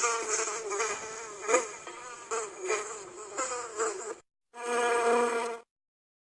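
Fly buzzing sound effect, a wavering buzz lasting about four seconds. It is followed by a short, steady pitched hum of about a second.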